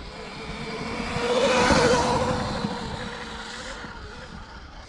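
Sur-Ron electric dirt bike running, its motor whine and hiss swelling to a peak about two seconds in, then fading away.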